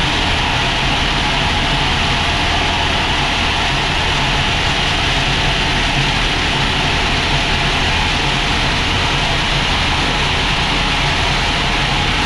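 Sawmill machinery running steadily: a low engine-like drone with a strong hiss above it, even and unchanging throughout.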